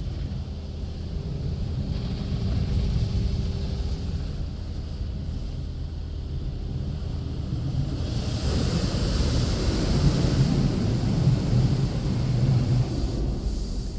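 Car wash running on the car, heard from inside the cabin: a steady low rumble under a rushing, spray-like noise, which grows louder and hissier about halfway through and eases near the end.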